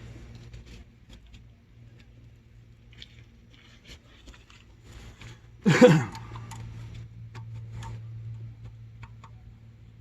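Light metallic clicks and ticks of tools and small engine parts being handled during teardown of a 6.7 Powerstroke diesel, with one loud, brief clatter about six seconds in, over a steady low hum.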